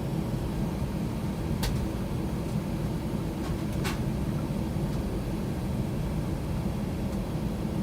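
Steady low rumble of the cabin of a JetBlue Airbus A321 after landing: engine and air-conditioning noise heard from a window seat. Two brief clicks come through about a second and a half in and again about two seconds later.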